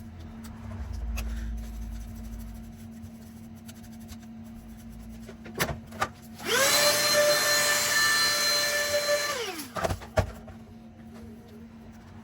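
Small electric screwdriver motor spinning up to a steady whine, running for about three seconds, then winding down. A few sharp clicks come before and after it.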